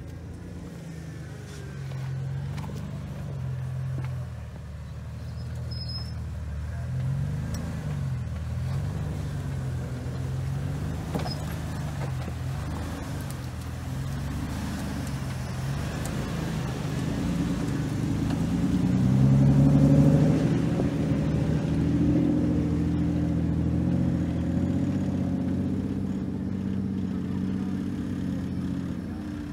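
Jeep Wrangler engine running at low revs as it crawls down a steep rocky trail, its revs rising and falling. It grows louder as it comes closer and is loudest about twenty seconds in.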